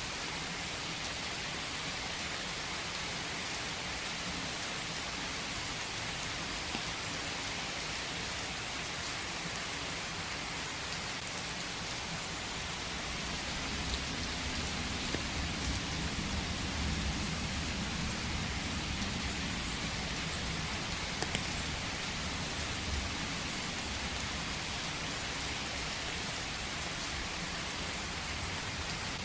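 Steady rain falling, a dense even patter. A low rumble swells in the middle and fades again.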